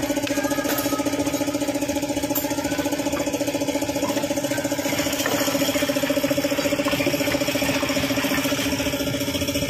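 An engine or motor running steadily at an even speed, with a fast, regular pulse. A few light clicks are heard over it.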